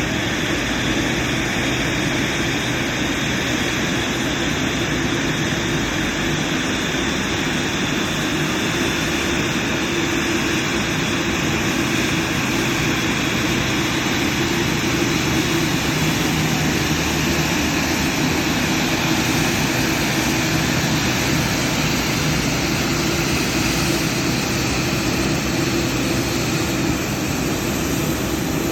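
Jet airliner engine running steadily, a loud, even noise with a low hum that does not change throughout.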